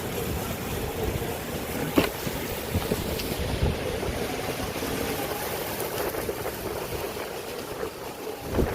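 Storm wind buffeting the microphone of a rider on an electric unicycle: a steady rumbling rush, with one sharp knock about two seconds in.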